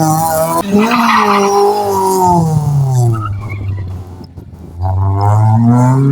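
Car engine revving hard and easing off as it is driven through a slalom course, its pitch rising and falling, with tyres squealing. About four seconds in the engine drops off briefly, then revs up again.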